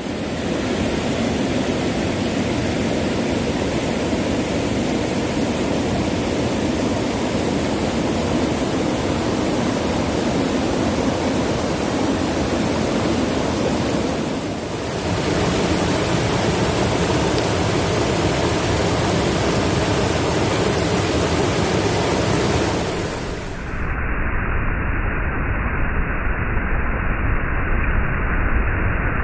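Steady rushing noise, broken by two short cuts; after the second cut, near the end, it sounds more muffled.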